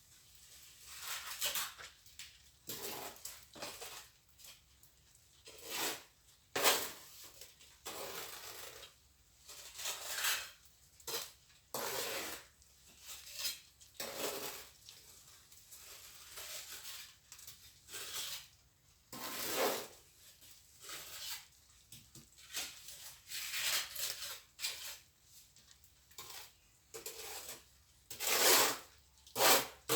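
Steel plastering trowel scraping and spreading cement mortar, in irregular short strokes with small knocks of metal on hard surfaces.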